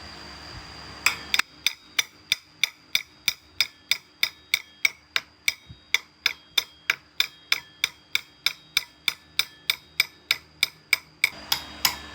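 Steady metallic tapping, about three to four sharp strikes a second, each with a short ringing tone. It starts about a second in and stops near the end.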